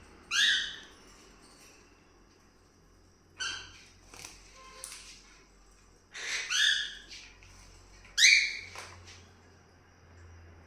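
Cockatiels calling: four loud, shrill chirping calls a couple of seconds apart, with fainter chirps between them.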